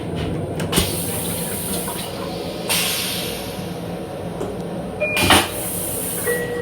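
Mechanical sounds inside an M7 railcar over a steady low hum. There is a click early, a hissing rush of air that starts about a third of the way in and fades, a loud clunk past the middle, and two brief high beeps.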